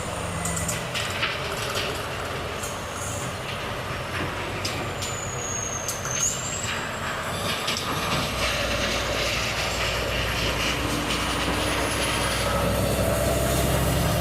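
Volvo FH truck on the move: short hisses and clicks of the air brakes and a falling high whistle in the first half. From about eight seconds in, the diesel engine grows louder, its note slowly rising as it pulls away.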